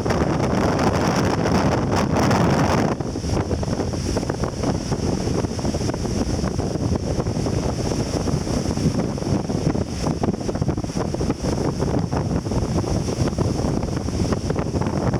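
Strong wind buffeting the microphone over surf breaking and washing on the beach at high tide, louder in the first three seconds and then steady.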